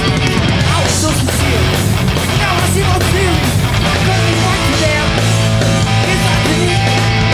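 Live New York hardcore punk band playing loud and fast: distorted electric guitars, bass and drums.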